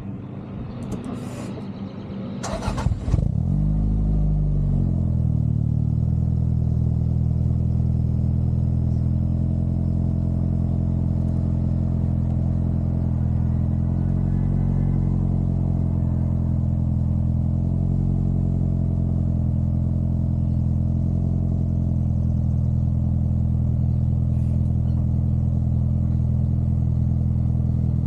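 Toyota Celica GT-Four's turbocharged four-cylinder engine started after a few knocks, catching about three seconds in; its revs flare, drop back and settle into a steady idle.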